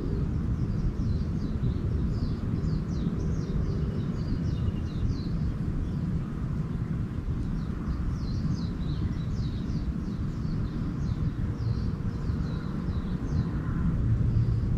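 Small birds twittering in rapid runs of short high chirps, in two bouts, over a steady low outdoor rumble.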